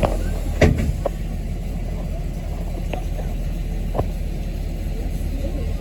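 Transit bus engine and its loud cooling fan running with a steady low drone, heard from inside the bus. A few sharp knocks or rattles, the loudest a little over half a second in, then others about a second, three seconds and four seconds in.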